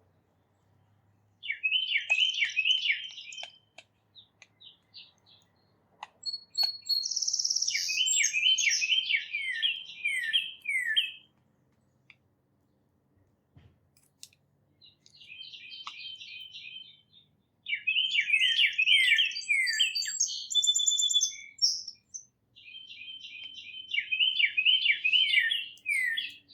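Songbirds singing: five song phrases, each a quick run of repeated descending notes a couple of seconds long, with short gaps between them. A second, higher buzzy call comes in twice.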